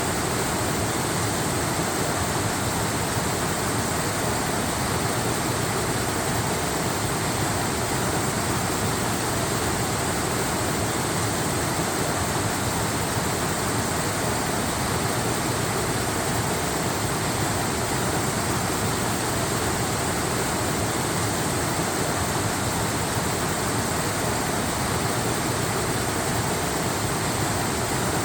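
Waterfall, water falling and rushing in a steady, unchanging hiss.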